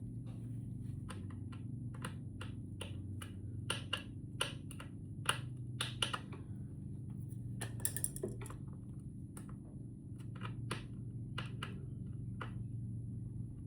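Irregular light clicks and taps, about one or two a second, from hands and small tools working on the opened battery's parts, over a steady low hum.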